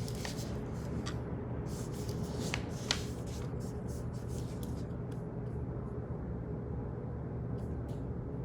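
Office background: a steady low hum with scattered light clicks and rustles, busier in the first three seconds and sparse after that.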